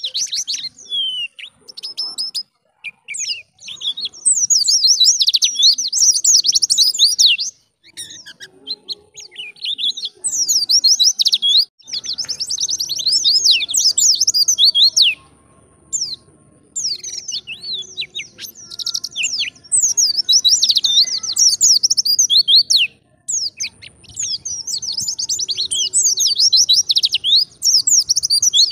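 Pleci (white-eye) singing a fast, twittering wild-type song of rapid high notes, in repeated bouts of a few seconds each with short pauses between them.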